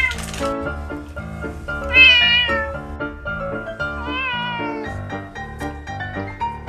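A domestic cat meowing three times, about two seconds apart, the loudest call the second one, over background music.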